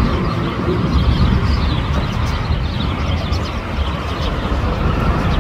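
Jet airliner engine noise: a steady low rumble.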